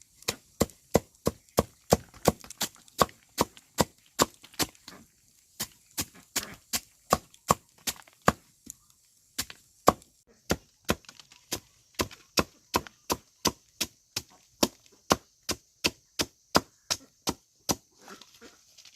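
A blade chopping rapidly and steadily into wood, about three sharp strokes a second, with a brief pause around halfway before the strokes stop near the end.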